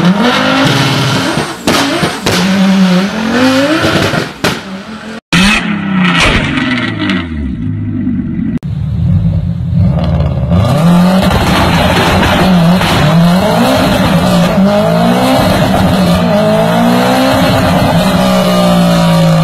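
Turbocharged rally-car engines revving hard, with sharp bangs and pops from the exhaust typical of antilag. From about ten seconds in, a Subaru Impreza WRX STI's turbocharged flat-four revs up and down on a dynamometer.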